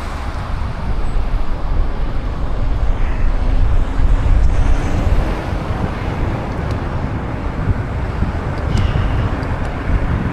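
Road traffic noise from passing cars, with a steady low rumble of wind on the microphone.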